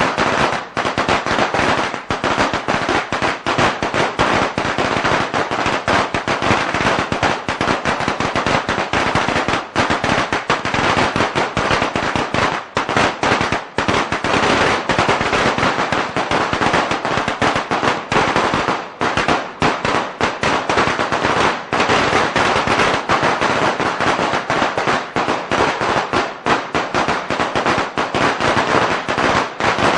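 A long string of firecrackers going off in rapid, unbroken crackling, many bangs a second, loud and continuous.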